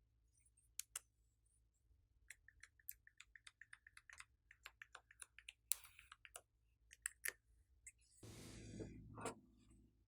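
Glossy slime being pressed and worked by hand: a quick run of small clicks and pops, then a longer squelch near the end.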